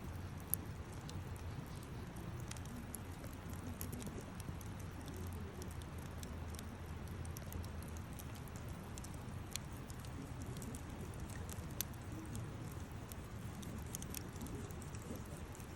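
Campfire burning: scattered sharp crackles and pops over a low steady rumble.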